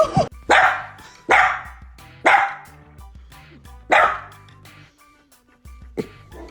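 A dog barking: four loud, sharp barks about a second apart, then a fainter one near the end.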